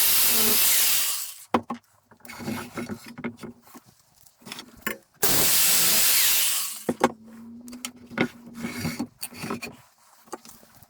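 Grinder cutting off the protruding ends of M4 threaded-rod bolts in two short bursts: one stops about a second in, another runs for about a second and a half starting about five seconds in. Sharp clicks and knocks of handling between the cuts.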